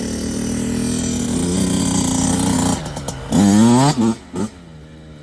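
Dirt bike engine running and slowly building revs. About three seconds in it revs hard, its pitch climbing for under a second, then blips once more briefly before dropping much quieter.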